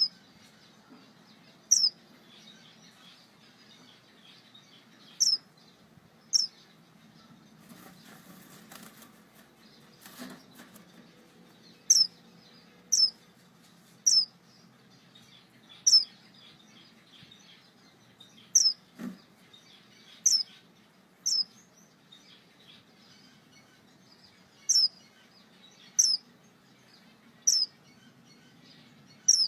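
Star finch giving short, high single call notes, each dropping slightly in pitch, repeated irregularly every one to three seconds, about fifteen times.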